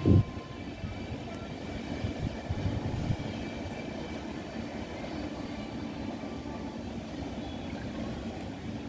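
Passenger train rolling away along the track: a loud knock right at the start and a few softer knocks about two to three seconds in, then a steady low rumble.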